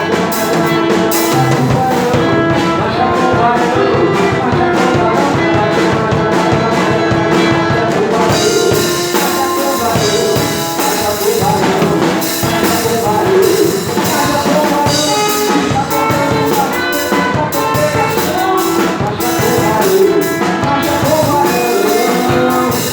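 Live band playing an upbeat gospel passage with a drum kit keeping a steady beat under sustained instrument notes, with no words sung.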